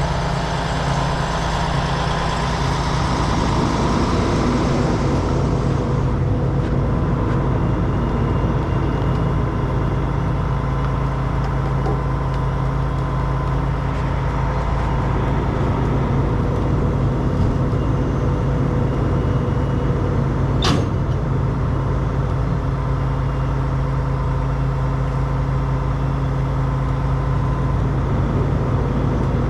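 Heavy diesel truck engine running steadily, with a hiss over it that stops about six seconds in and a single sharp click about two-thirds of the way through.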